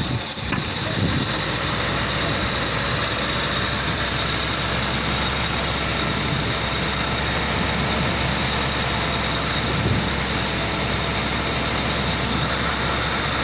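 A 1985 Jaguar XJ6 Series 3's XK straight-six engine idling steadily.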